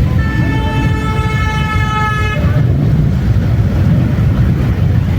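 A horn sounding one steady, unwavering note for about two seconds, over a constant low rumble.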